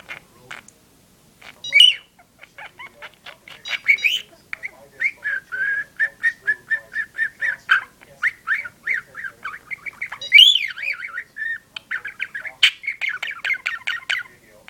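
Budgerigar chattering: a long, fast run of clicks and warbled chirps, broken by a few louder, higher squawks.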